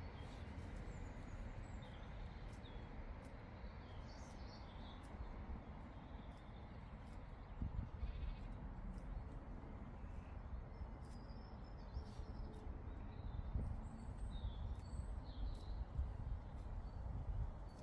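Grazing-meadow ambience: a steady low rumble of wind on the microphone, birds chirping on and off, scattered sharp ticks, and a short animal call about eight seconds in.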